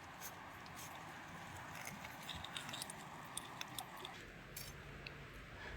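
Faint scattered clicks and light crackling over a low hiss, with a few louder clicks.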